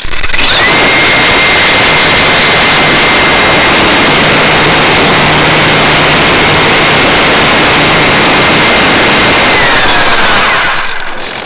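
Electric motors and propellers of an RC air truck running at high throttle, heard up close: a loud rushing roar with a steady high motor whine. The whine rises at the start, holds, and winds down near the end as the roar fades.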